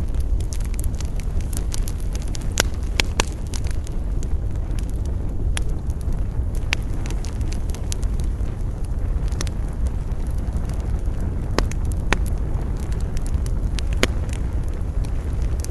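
Wood campfire crackling, with frequent sharp pops scattered irregularly over a steady low rumble of wind.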